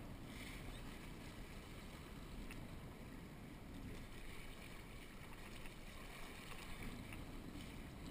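Steady wind rush and water noise aboard a small catboat sailing under way.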